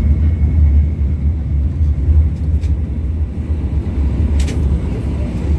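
Steady low rumble inside an LVS-86K articulated trolleybus standing at a stop, with a few faint clicks, one plainer about four and a half seconds in.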